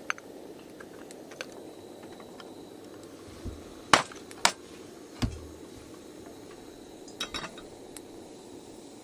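Cookware and utensils being handled: scattered clinks and knocks, the loudest two about four seconds in, half a second apart, over a steady low background hum.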